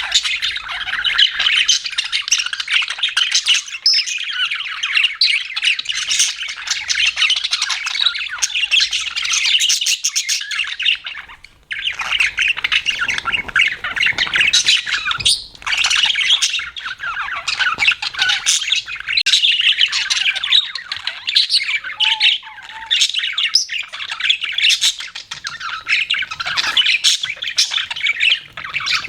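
Budgerigars chattering: a dense, continuous mix of high chirps, squawks and warbles from several birds, with a brief lull about twelve seconds in.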